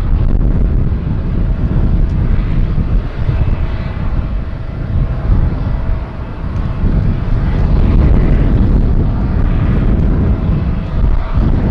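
Jet airliner's engines heard on approach to landing: a loud, steady rumble with a faint steady whine above it.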